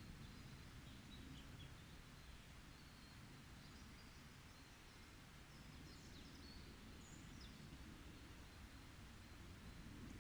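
Faint forest ambience: distant birds giving short, high chirps and quick sliding calls scattered through, over a low steady background rumble.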